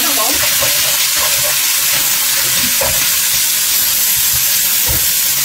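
Pork pieces sizzling steadily in hot oil in a nonstick wok as a spatula stirs them around the pan.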